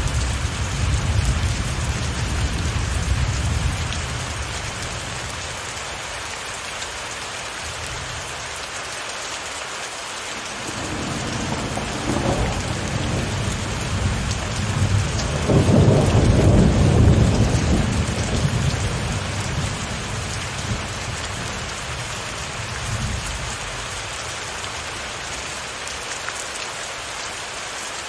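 Steady heavy rain with rolling thunder: low rumbles at the start and again about twelve seconds in, the longest and loudest roll about halfway through, and a short one near the end.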